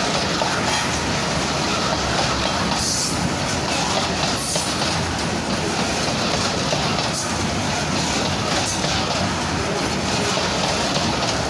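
Freight train wagons rolling past close by: a loud, steady rumble of steel wheels on the rails, with repeated clickety-clack as the wheels cross the bolted rail joints every second or two.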